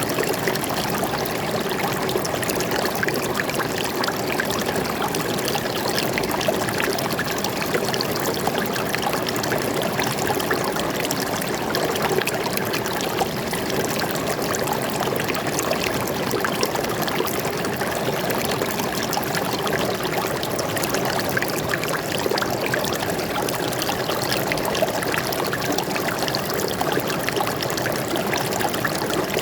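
Water flowing steadily over rocks in a forest stream, a continuous splashing and trickling rush.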